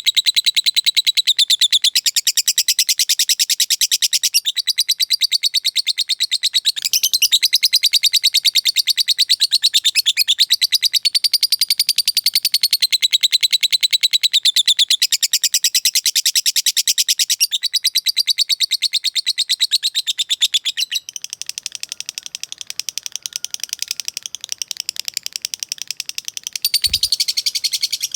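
Lovebird singing its long 'ngekek' chatter: very fast repeated high notes run together in unbroken bouts several seconds long, separated by short breaks. The song turns softer for several seconds near the end, then comes back loud just before it stops, with one brief low thump.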